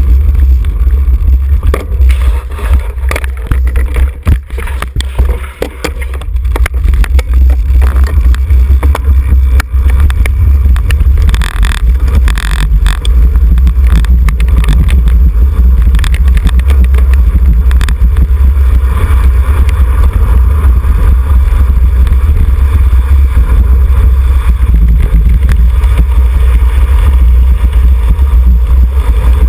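Wind buffeting the microphone of a camera carried on a road bike at racing speed: a loud, steady low rumble that eases briefly about four to six seconds in.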